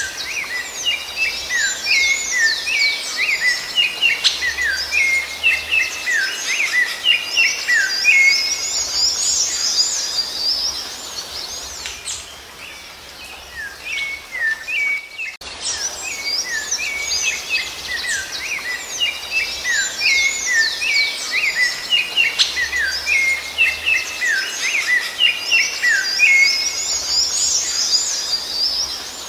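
Songbirds singing a dense run of quick chirps and whistled notes. The same stretch of song starts over after a brief lull about halfway through.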